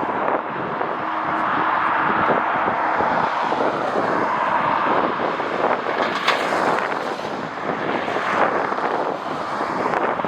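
Jet airliner engines as a plane passes on its landing approach, a steady rushing noise mixed with wind buffeting the microphone in gusts.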